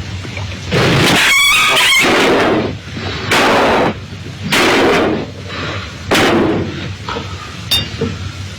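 A series of loud crashing or blasting noises: a long one about a second in with pitched tones through it, then three shorter bursts, and a sharp click near the end.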